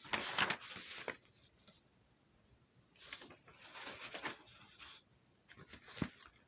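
Soft rustling and handling noises in three short bursts, with a sharp click near the end.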